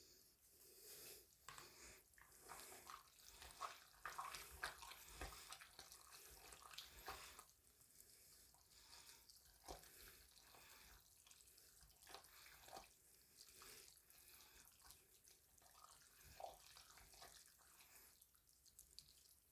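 Faint, irregular wet clicks and smacks of a spoon stirring a pot of thick, creamy egg noodles.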